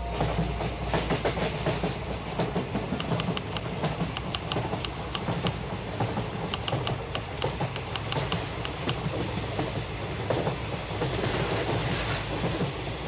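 Suburban commuter train passing the platform at speed: a steady rumble and rush, with clusters of quick clickety-clack from the wheels over rail joints between about 3 and 9 seconds in.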